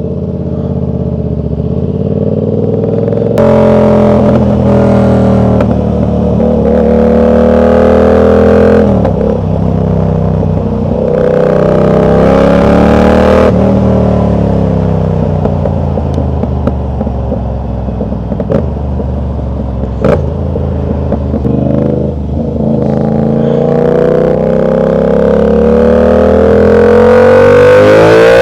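Yamaha R7's parallel-twin engine under way on the road, its pitch climbing as it accelerates, easing off and climbing again several times, with a long rise near the end.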